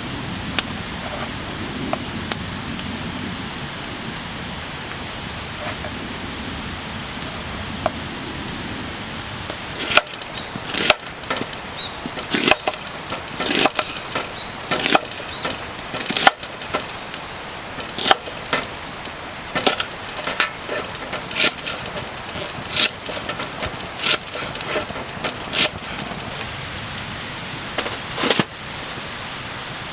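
Sharp wooden cracks and knocks, irregular, one or two a second, starting about ten seconds in over a steady hiss.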